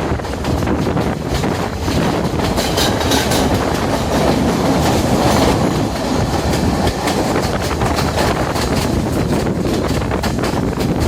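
Diesel multiple-unit intercity express train running along the line, its wheels clacking over the rails with a steady rumble.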